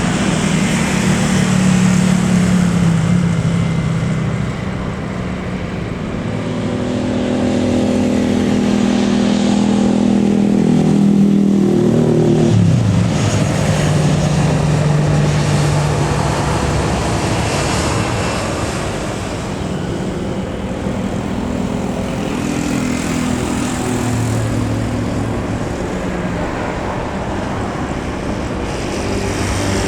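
Continuous engine noise with low droning tones that shift in pitch, one dropping clearly about twelve seconds in.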